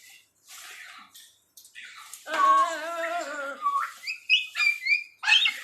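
Pet parrot calling: a loud wavering, warbled call about two seconds in, followed by a run of short high whistled chirps.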